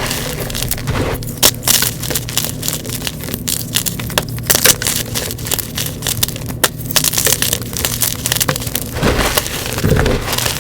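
Blocks of gym chalk being crushed and crumbled by hand in a dense run of crunching and crackling, with a steady low hum beneath.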